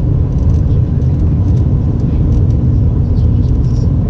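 Airbus A320 cabin noise: a loud, steady, low rumble from the engines and the airflow, with no change in level.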